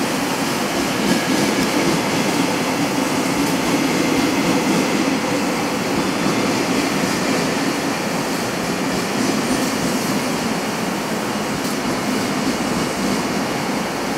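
KRL Commuter Line electric train running along the platform, a steady loud noise of the passing train.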